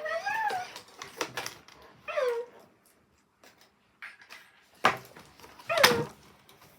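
Present Pets Fairy Pup robot toy puppy playing electronic puppy yelps and whimpers, three short falling cries, mixed with a few sharp clicks and knocks.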